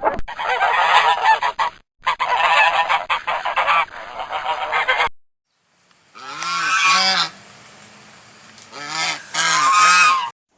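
Geese honking. A flock calls over one another for about five seconds. Then a single goose gives two honks, and a little later a quick run of three or four more.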